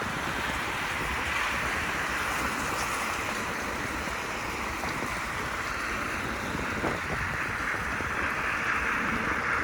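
Steady rushing hiss of riding an electric unicycle on a wet road: tyre spray on the wet pavement mixed with wind on the microphone.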